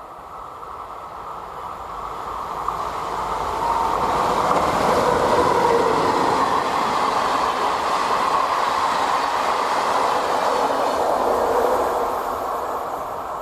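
A train passing at speed: the rumble and rush of wheels on rail swell over the first few seconds, hold loud for about eight seconds as the train goes by, then fade near the end.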